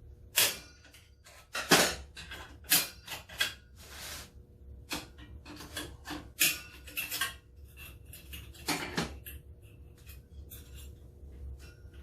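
Metal parts clinking and scraping, several clinks ringing briefly: snap-ring pliers working an external snap ring off a transmission clutch drum held in a spring compressor, and the freed parts being handled.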